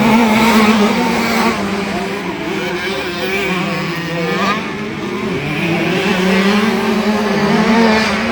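Small 65cc two-stroke motocross bike engines running hard on the track, their pitch rising and falling with the throttle: it drops after about a second and a half, then climbs again through the second half.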